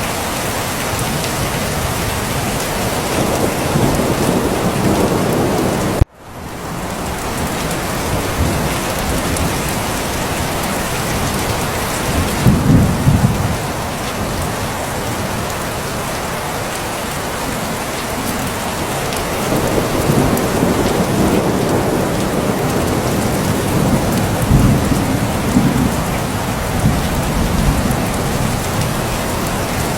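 Steady heavy rain falling, with thunder rumbling low several times, loudest a little under halfway through and again near the end. About six seconds in, the sound cuts out abruptly and fades back in.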